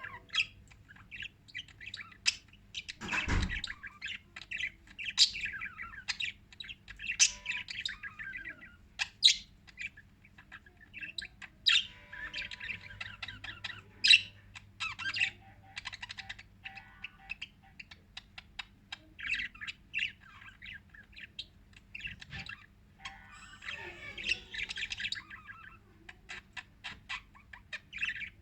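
Pet lovebirds chirping and squawking in quick, overlapping calls, with one low thump about three seconds in.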